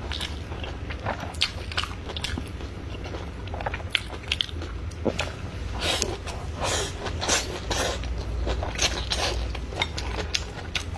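Close-miked chewing and biting of food, with irregular crisp crunching clicks.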